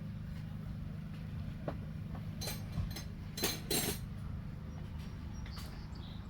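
A steady low engine hum, with a few sharp clinks and knocks about halfway through.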